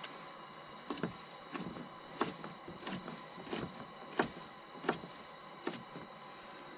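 Cooking utensil knocking and scraping against a pan, one sharp knock roughly every two-thirds of a second.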